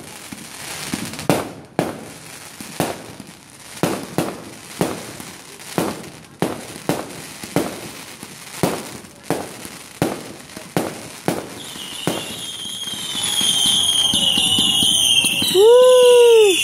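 Fireworks going off in a rapid string of sharp bangs, about two a second. From about twelve seconds in, high warbling whistles build up, and near the end a loud, brief whistle rises and falls in pitch.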